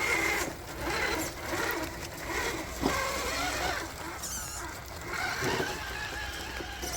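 Electric motor and geared drivetrain of an RC scale crawler truck whining as it is driven through thick mud, the pitch rising and falling with the throttle while the tires spin and dig in.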